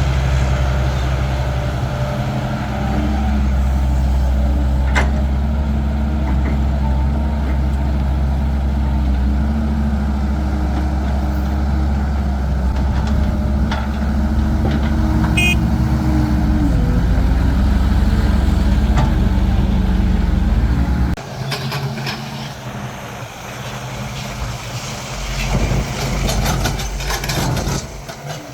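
Heavy diesel engine running steadily with a deep drone, its pitch shifting a little about 16 seconds in. About 21 seconds in, the engine sound drops away abruptly, leaving a quieter mix with scattered knocks and clatter.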